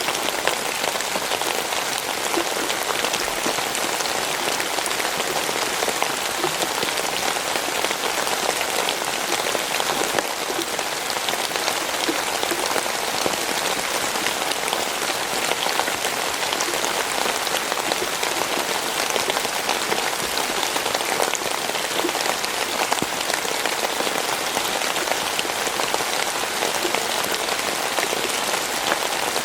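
Steady rain falling on a surface, a dense even patter of many small drop impacts.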